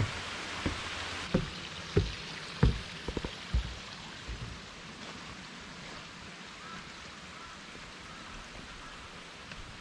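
Steady rush of a mountain stream, with a few footsteps on the trail in the first four seconds.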